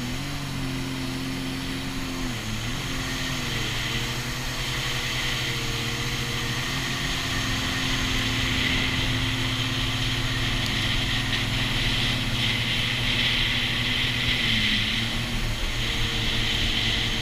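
Sea-Doo GTI jet ski engine running steadily under way, its pitch dipping briefly a few times, over a steady hiss.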